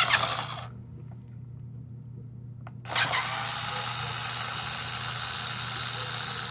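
Hyper Tough 4.8-volt cordless screwdriver whirring in a short burst, then running steadily for about four seconds as it backs out a long screw.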